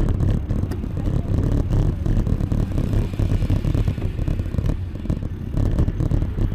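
Wind buffeting the camera microphone and road rumble while riding a bicycle: a loud, fluttering low rumble with a few light clicks and rattles.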